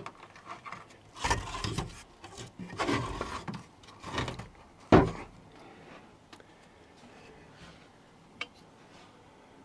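A wooden block being scraped and dragged about, in three rough rubbing bursts, then one sharp knock about five seconds in; a faint click near the end.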